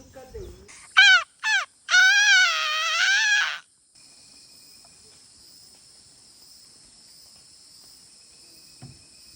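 Animal calls: two short downward cries, then a long wavering call lasting about a second and a half. A steady high insect drone runs on after it.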